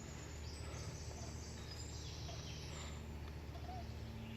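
Birds chirping in short high notes over a steady low hum.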